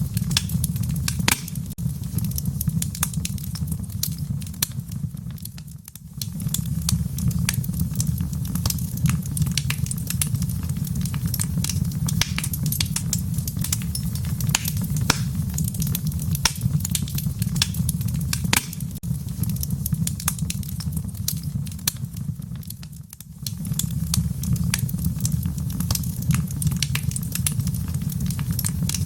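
Wood fire burning in a fireplace: a steady low rumble with frequent sharp crackles and pops from the burning logs. Twice the sound dips briefly and comes back.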